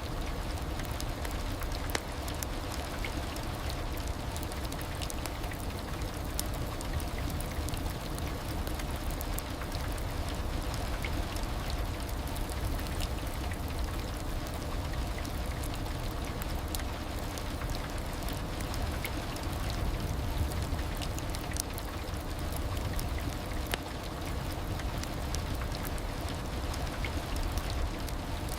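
Heavy rain: a steady, even hiss of falling rain with scattered individual drop ticks, and a faint steady hum underneath.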